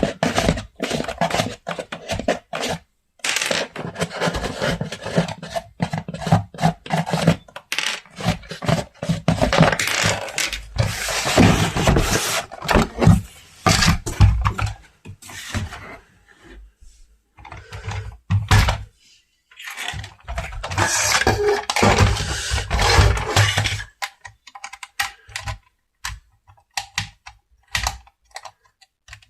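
Hands handling packaging and plastic toy parts: irregular scraping, rubbing and clattering with brief pauses, thinning to scattered clicks near the end.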